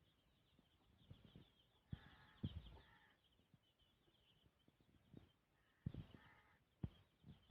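Faint bird calls in two short bouts, about two seconds in and again near six seconds, among scattered soft knocks, over a steady faint high chirring.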